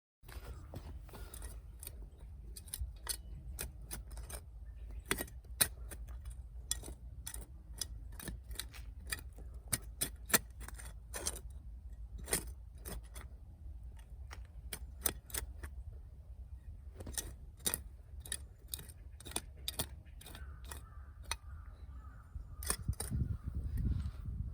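Campfire of dry firewood crackling, with irregular sharp pops and snaps over a low steady rumble.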